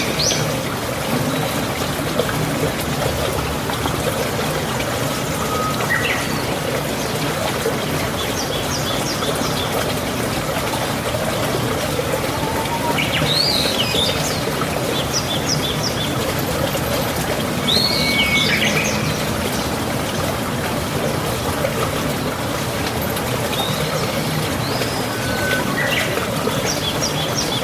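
Birds chirping every few seconds, with short sweeping calls, over a steady trickle of running water.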